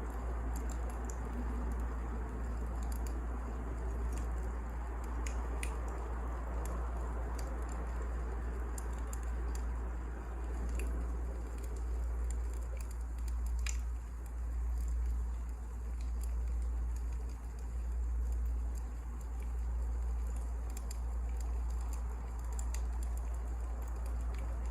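Wood fire crackling, with sparse sharp pops at irregular moments over a steady low rumble and hiss.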